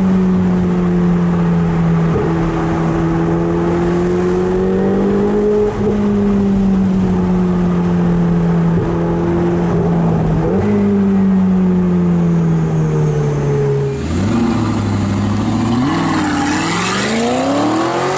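Supercar engine heard from inside the cabin while cruising, a steady note that dips briefly every few seconds. About fourteen seconds in, a supercar revs and accelerates away, its note rising sharply.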